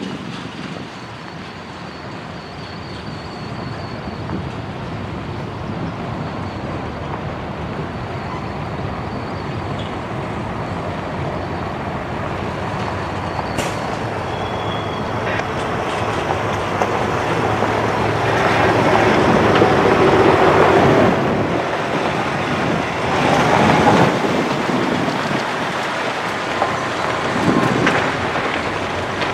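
Freight train's container cars rolling past on the rails: a steady rumble and clatter of steel wheels, growing louder toward the middle, with a single sharp click about halfway through.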